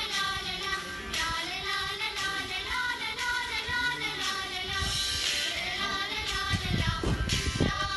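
Children singing a song with musical accompaniment, the sung melody held and gliding between notes, with a few low thumps near the end.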